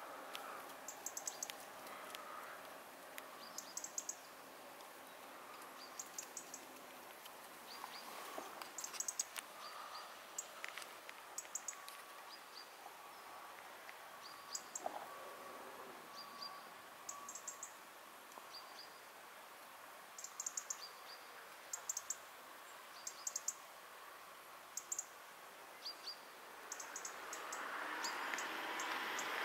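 Small bird chirping outdoors in short high-pitched clusters every second or two over a faint steady background hiss. A rush of noise swells up near the end.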